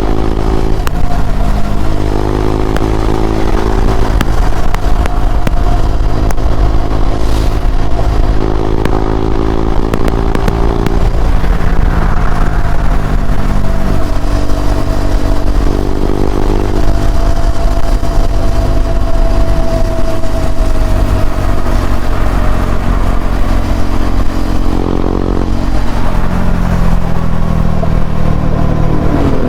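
KTM Duke 390 single-cylinder engine through an Akrapovic slip-on exhaust, ridden on the road, its pitch rising and dropping back in steps every few seconds as the bike accelerates and shifts through the gears.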